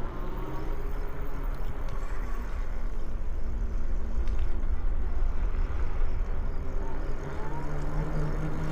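Wind rushing over the microphone and tyre rumble from a bicycle being ridden, as a steady low noise. A faint steady hum underneath grows a little stronger near the end.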